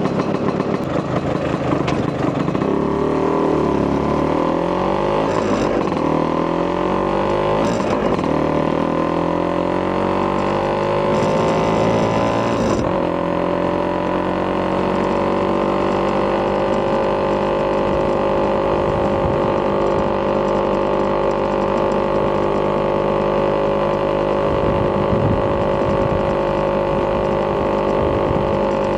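Vespa PX200 two-stroke single-cylinder engine with a Polini 210cc kit and Malossi expansion chamber, accelerating with its pitch climbing in several steps over the first dozen seconds, then running at a steady cruising speed.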